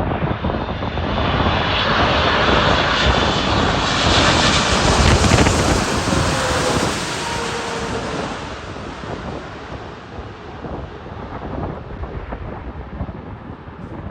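Boeing 747 freighter's jet engines going by as it lands: a loud rushing jet noise with a high whine that peaks about five seconds in, then fades to a low rumble.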